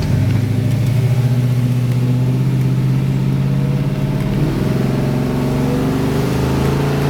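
1962 Chevrolet Nova II's 383 V8 running under throttle as the car drives, a steady strong engine note that climbs in pitch from about halfway through as it picks up speed.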